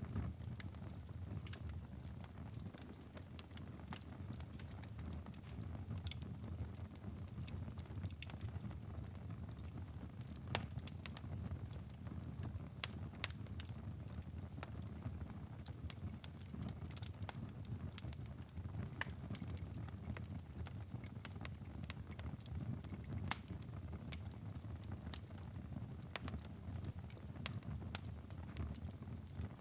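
Wood fire burning in a fireplace: a steady low rumble of flames with frequent small crackles and occasional sharper pops.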